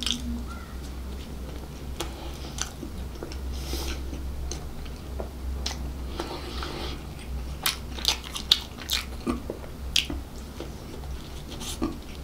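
Close-miked chewing and biting of bread and pastry snacks, with wet mouth clicks and crackles that come thickest and loudest from about two-thirds of the way in. A steady low hum runs underneath.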